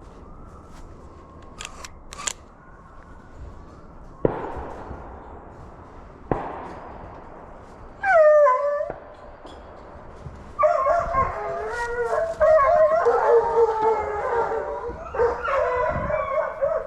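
Two distant gunshots, each with a long echoing tail, about four and six seconds in. About eight seconds in comes one loud falling howl from a hound, and from about ten seconds in several deer hounds bay together while running a deer.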